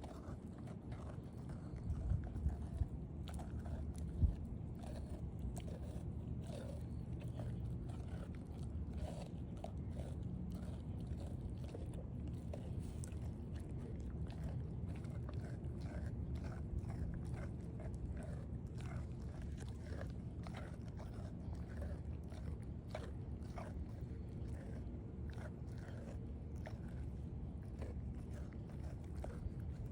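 A puppy chewing and biting into a raw meat patty, with many short crunching clicks throughout and a few louder knocks in the first few seconds.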